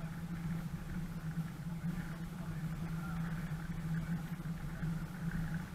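Off-road 4x4's engine running steadily as it drives slowly along a leaf-covered track, an even hum with no change in pitch.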